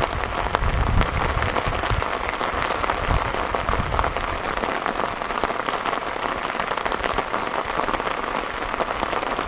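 Heavy rain pouring down, a dense patter of drops hitting a surface. A low rumble underlies the first few seconds and fades out.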